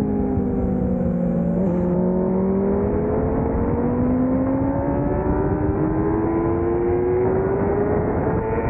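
600cc racing motorcycle engine heard from onboard, over constant wind rush. Its pitch falls as the bike slows, steps briefly about two seconds in, then climbs steadily as the bike accelerates hard through a gear.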